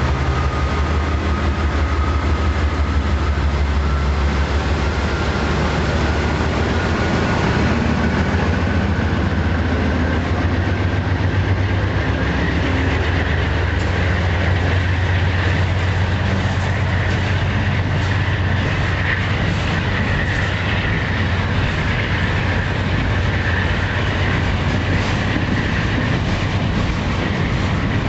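Canadian Pacific Holiday Train cars rolling past on steel rails, a steady deep rumble of the wheels with a faint high squeal that drifts in and out.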